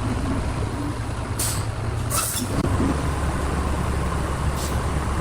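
A heavy engine running steadily at a low rumble, with three short bursts of hiss about a second and a half in, at two seconds, and near the end.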